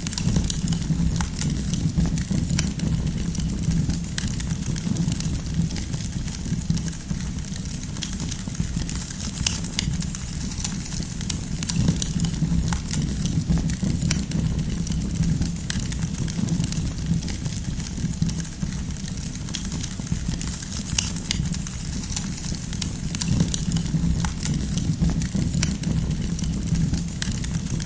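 Wood campfire crackling, with frequent irregular small pops and snaps over a steady low rumble.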